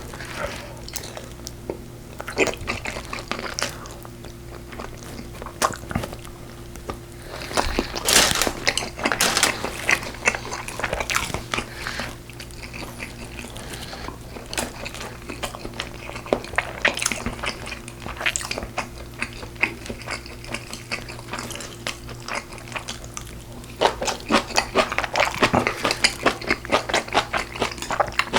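A person chewing and biting braised pork ribs (galbi-jjim), with a string of short crunches and mouth clicks that come thicker and faster near the end.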